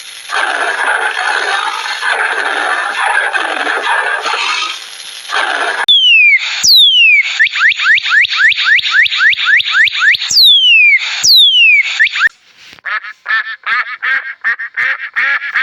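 A run of different animal calls, one after another. First a dense, noisy chorus for about six seconds. Then a string of sharp falling whistles, several a second. From about twelve seconds in come rapid, repeated quack-like calls.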